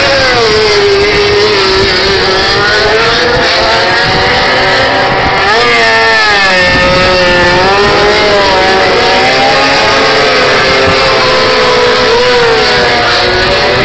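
MotoGP racing motorcycle engines held at high revs for practice starts, the pitch wavering up and down with a sharp rise and fall about six seconds in.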